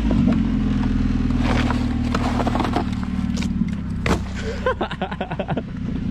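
Car engine idling low and steady through a loud aftermarket exhaust while the car is backed up slowly. Scattered clicks and knocks come in the middle, and a quick run of ticks near the end.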